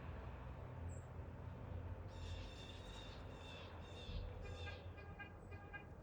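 A bird calling about two seconds in: a run of harsh, descending notes, then a quicker string of short repeated notes, over a low steady rumble.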